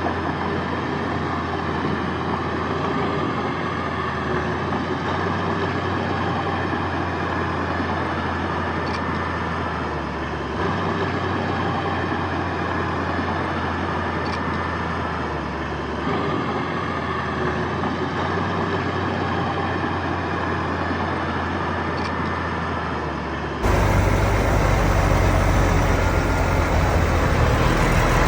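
Diesel engines of heavy earthmoving machinery running steadily. Near the end the sound cuts abruptly to a louder, deeper engine rumble.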